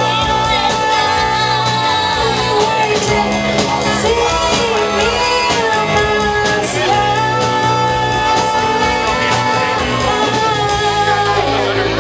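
A band playing a song live: a singer's voice over guitar and a steady drum beat.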